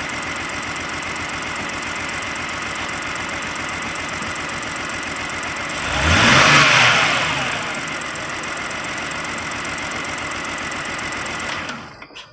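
BMW 328i xDrive's 3.0 L inline-six idling, an engine that has been misfiring on three cylinders from loose injector connectors. It is revved briefly about six seconds in, then settles back to idle, and the sound cuts off suddenly near the end.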